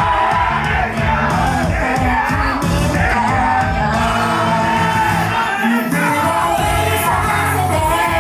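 Live J-pop idol song over the venue's sound system, with female group vocals and a crowd of fans shouting along.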